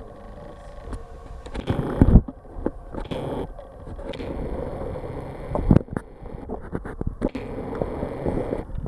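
Footsteps and irregular knocks and scrapes of handling noise, over a steady low background rumble.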